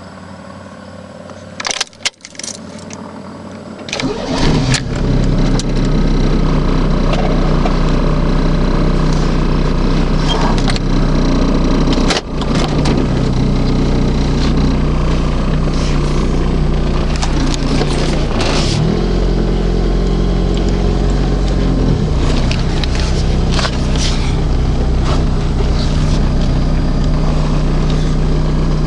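1998 Pontiac Firebird engine cold-started in deep-freeze cold: a few clicks, then the engine catches about four seconds in and settles into a steady idle. It stumbles briefly about twelve seconds in, and the idle rises for a few seconds around the twenty-second mark.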